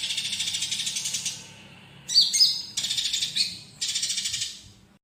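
Olive-backed sunbird (konin) singing in two phrases. Each phrase has a few sharp down-slurred chirps like fighting house sparrows, then a fast buzzy trill. The song fades out just before the end.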